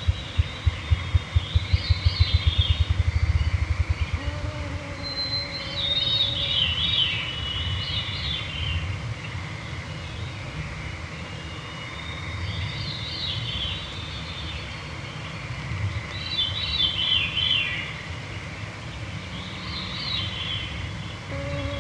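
Veeries singing their downward-spiralling, fluty phrases again and again in the evening woods. At the start a series of low thumps speeds up into a flutter and dies away about four seconds in. A mosquito's whine passes briefly.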